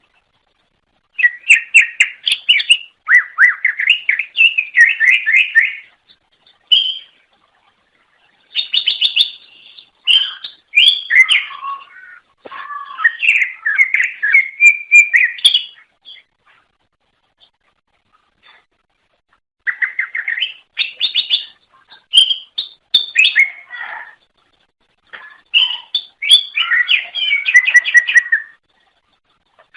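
Cucak ijo (greater green leafbird) singing in several long, fast phrases of varied chattering and whistled notes, separated by silent pauses of one to four seconds.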